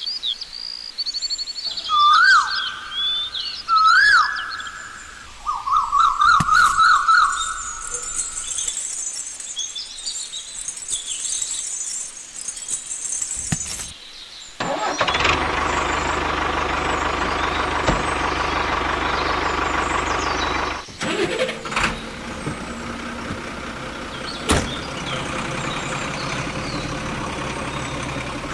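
Birds chirping, then from about halfway a heavy vehicle engine starts running steadily, dropping out briefly about three quarters of the way through.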